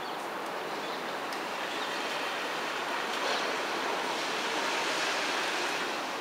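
Steady hiss of heavy rain falling, growing a little louder partway through.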